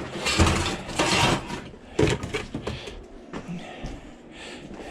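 Scrap pieces being picked up and handled: scraping and rustling, a sharp knock about two seconds in, then lighter clatter.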